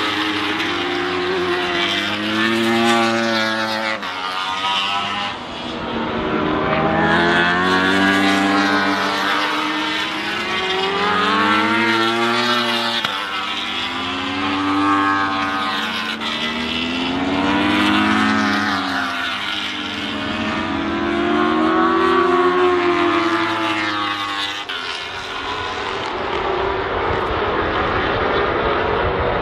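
Honda CBR1000RR Fireblade superbikes' inline-four engines at racing speed, passing one after another. The pitch rises as each bike accelerates and falls away as it goes by, again and again, ending in a lower rumble near the end.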